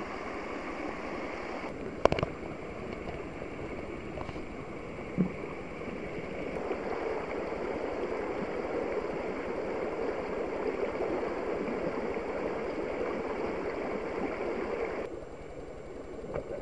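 Steady rushing of running water from a stream, with a sharp click about two seconds in. It grows a little louder partway through and drops off suddenly near the end.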